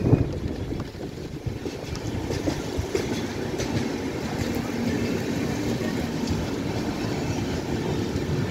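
Indian Railways express train coaches rolling past at speed: a steady rumble of wheels on rail, with scattered clicks of the wheels over the rail joints and a louder knock at the very start.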